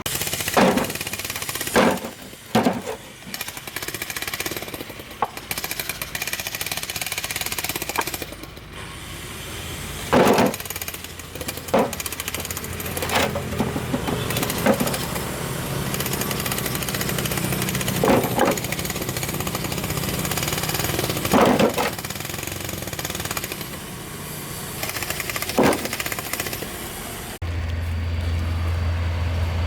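Loud, continuous rattling machine noise with about ten sharp knocks scattered through it. Near the end it cuts abruptly to a steady low hum.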